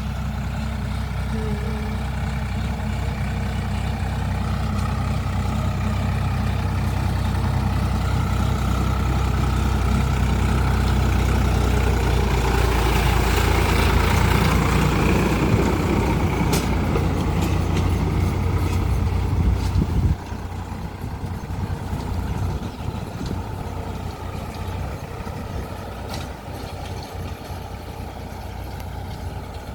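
Sonalika tractor's diesel engine running steadily. It grows louder toward the middle, then drops sharply about two-thirds of the way through.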